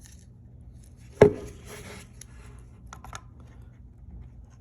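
Handling of calipers on a plastic tool battery while taking a measurement: one sharp knock about a second in, then a brief scrape and a couple of small clicks.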